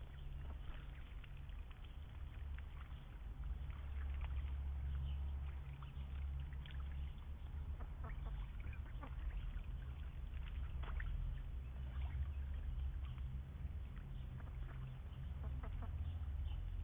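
Indian runner ducks giving short, scattered calls over a steady low rumble.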